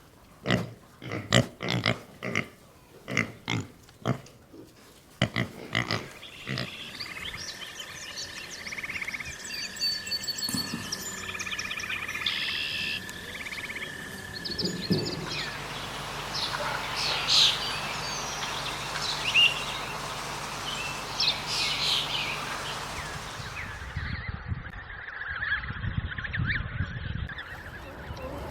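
A pig grunting over and over, about two short grunts a second, for the first six seconds. It then gives way to other animal clips with steady background noise and scattered calls.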